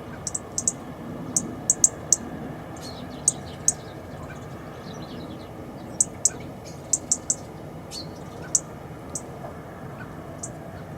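Small garden songbirds giving short, sharp, high-pitched call notes, about a dozen scattered irregularly, over a steady low background rumble.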